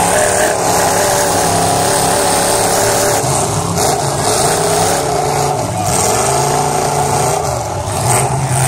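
Several demolition derby cars' engines running and revving hard at once, their pitch rising and falling as the cars drive and ram each other.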